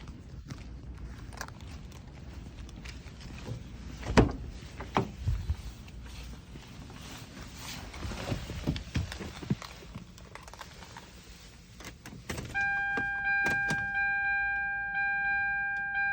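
Keys jangling and scattered clicks and knocks from handling inside a Hyundai NF Sonata. About twelve seconds in, the car's warning chime starts, a bell-like ding repeating about every three quarters of a second.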